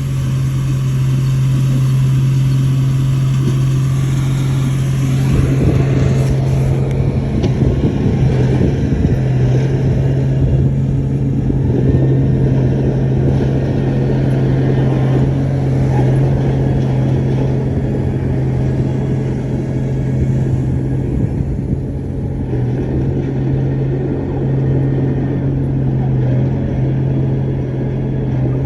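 Shantui bulldozer's diesel engine running steadily with a strong low hum, joined by denser, rougher working noise from about five seconds in.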